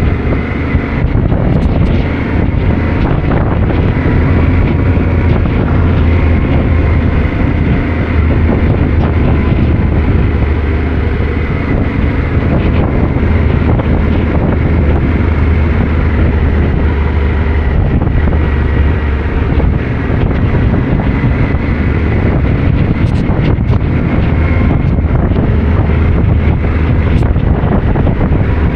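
Yamaha Ténéré 700's parallel-twin engine running steadily under way, heavily buffeted by wind on the microphone.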